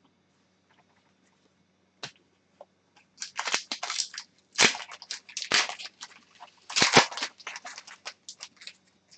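Hockey trading cards and a pack wrapper being handled, with irregular bursts of crinkling and rustling from about three seconds in.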